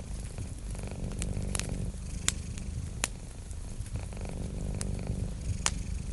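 Cat purring steadily in a low, fast-pulsing rumble, with several sharp pops from a crackling wood fire.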